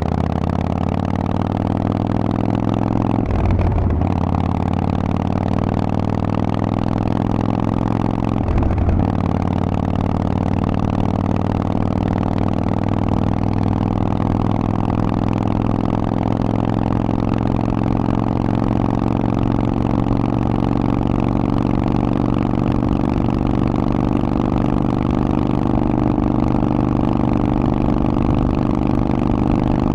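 Harley-Davidson Forty-Eight's air-cooled V-twin running through a Vance & Hines exhaust under way, its note climbing gradually with two brief breaks about three and a half and nine seconds in, then holding a steady cruising pitch.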